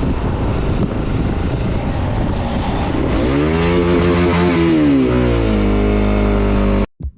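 A motor vehicle's engine over loud rushing road and wind noise. About three seconds in the engine revs up, holds, then eases off and settles to a steady note, and the sound cuts off abruptly near the end.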